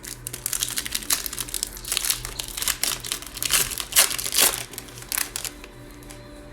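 Trading card pack wrapper crinkling and being torn open: a dense, crackly rustle for about five seconds that quietens near the end.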